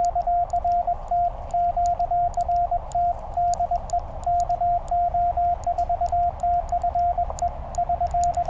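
Morse code from a Penntek TR-35 CW transceiver: a single steady tone of about 700 Hz keyed in quick dots and dashes over receiver hiss, with faint clicks along with it.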